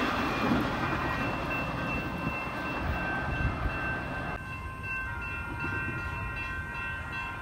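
Amtrak Pacific Surfliner passenger train moving off down the track, its rail rumble fading, with steady high tones over it. About four seconds in, an abrupt cut drops to quieter trackside sound with a different set of steady tones.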